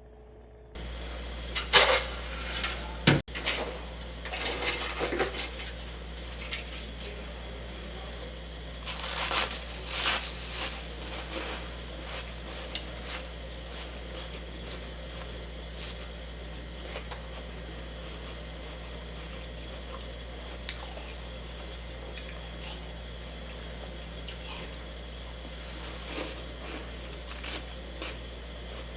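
Crisp crunching and scraping of frost, with clinks like a utensil on a container. The sounds come in dense bursts over the first dozen seconds, then thin out to occasional small clicks, over a steady low hum that comes in about a second in.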